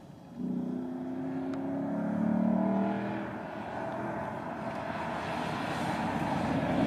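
Ford Mustang's engine approaching and accelerating, its note rising and growing louder toward the end as the car nears.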